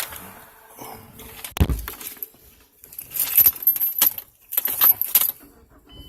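Car keys jangling on their ring in several bursts as the key is handled to start the car, after a single thump about one and a half seconds in. A steady high electronic tone begins just at the end.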